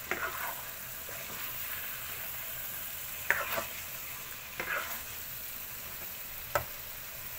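Chicken and vegetables with egg whites sizzling steadily in a frying pan while a spatula stirs through them. A few louder scrapes of the spatula against the pan come through, and there is a short knock near the end.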